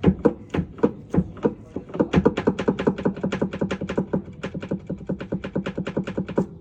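Electrolux LTD top-loading washing machine making an abnormal knocking noise during the wash: a run of sharp clacks, about three a second at first, then about six a second over a steady motor hum from about two seconds in, cutting off suddenly near the end.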